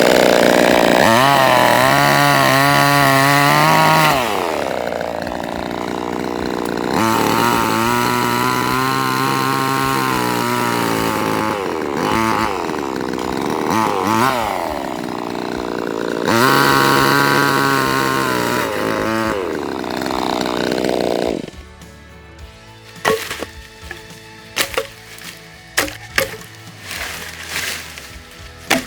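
Angle grinder working leaf-spring steel, its motor pitch sagging under load and climbing back as it is eased off, over and over. It stops about three quarters of the way through, leaving light scattered taps and clicks.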